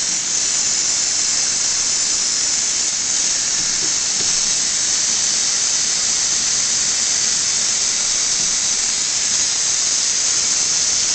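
Tap running steadily into a sink, a constant loud hiss of water, as warm water is run for a bubble bath.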